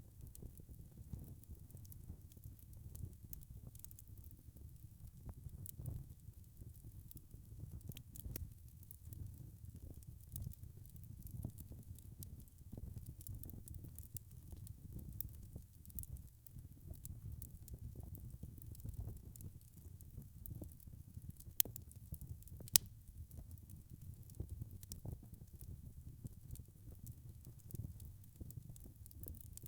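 Log fire crackling: a steady low rumble of flames with frequent small crackles, and two sharper pops a little past two-thirds of the way through.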